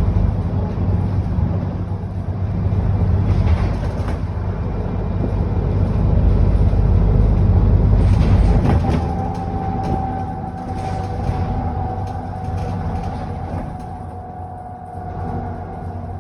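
Alexander Dennis Enviro400 double-decker bus heard from on board, its diesel engine pulling hard and then easing off after about eight seconds. From about halfway through, a steady whine runs over the quieter engine note.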